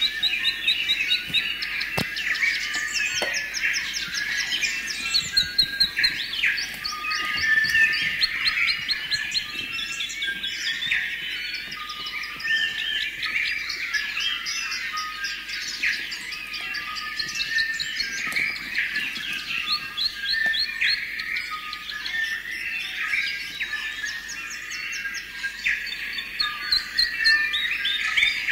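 Dense chorus of many songbirds calling at once, a continuous mix of chirps, rapid trills and whistled notes.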